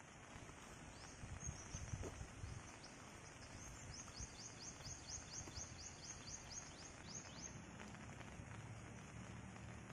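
Rural outdoor ambience with a bird calling a rapid series of short, high notes, about five a second, for about three seconds in the middle. A few soft low rustles come near the start.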